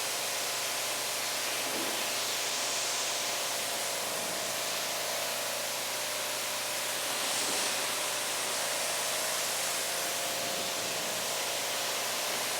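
Steady hiss of water spray rinsing water spot remover off a car's ceramic-coated hood, with a faint steady hum under it.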